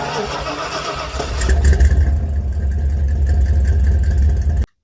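Vehicle engine starting, then running with strong low-pitched engine sound, cutting off suddenly near the end.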